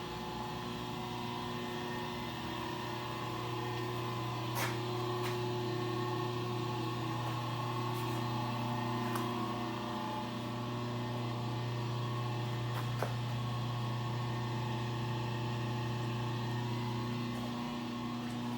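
A steady electrical hum with a low, even pitch, with a few faint ticks now and then.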